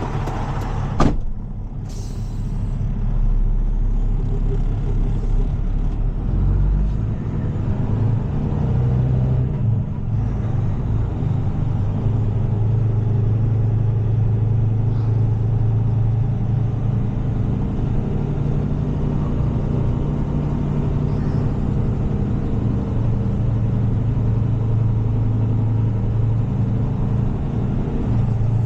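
Heavy tow truck's diesel engine running steadily at low speed while reversing with a truck in tow. A sharp knock comes about a second in, and a short hiss about two seconds in.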